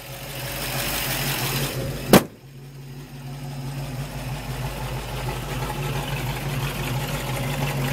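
1967 Shelby Mustang's 289 Hi-Po V8 idling steadily, with one loud slam about two seconds in as the hood is shut; after it the engine sounds more muffled.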